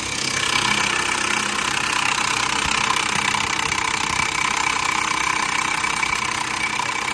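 A machine running steadily with a high whine and a hissing rattle, starting abruptly at the outset.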